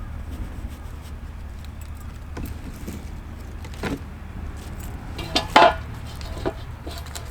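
A few hard clinks and knocks of handled objects, the loudest cluster a little past halfway, some with a short ringing tone, over a steady low hum.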